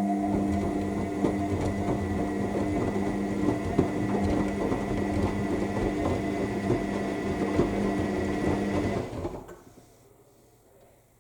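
AEG 7000 Series washing machine turning its drum during the main wash. The motor gives a steady hum with a thin high whine, and the laundry tumbles and clatters inside. The drum stops about nine seconds in as it pauses between turns.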